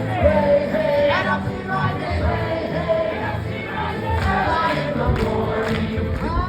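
A live band playing a song, with a singer holding and bending notes over a steady bass line.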